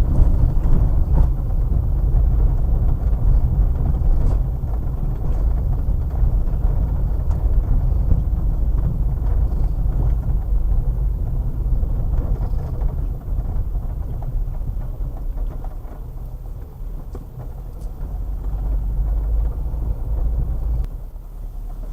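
Car engine and road noise heard from inside the cabin while driving, a steady low rumble that drops sharply near the end.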